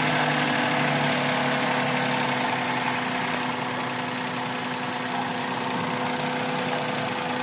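Suzuki Celerio's three-cylinder engine idling, a steady hum that eases slightly about three seconds in. The idle is still faulty: it keeps changing, part of the misfire the mechanic is chasing.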